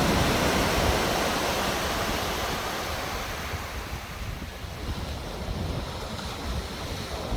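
Sea waves washing onto the shore, with wind buffeting the microphone. The surge is loudest at the start and slowly eases off.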